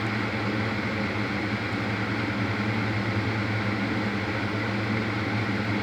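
Steady background hum and hiss of room noise, even and unchanging throughout, with a constant low hum.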